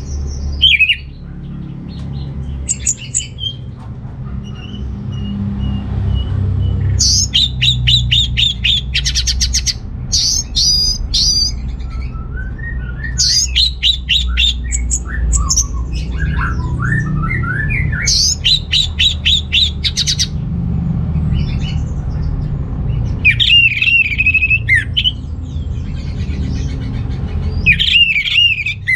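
Orange-headed thrush singing: varied whistled phrases alternating with bursts of rapid chattering notes, repeated every few seconds. A steady low rumble runs underneath the song.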